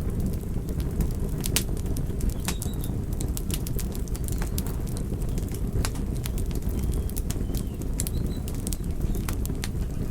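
Wood fire crackling: a steady low rumble under frequent, irregular sharp pops and snaps.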